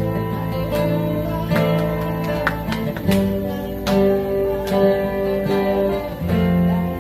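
Acoustic guitars playing an instrumental passage, plucked and strummed chords with held notes underneath and chord changes about three and six seconds in; no singing.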